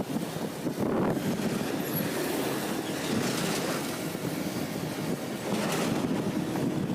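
Motorcycle on the move, its engine and the rush of wind buffeting the microphone blending into a steady noise that swells now and then.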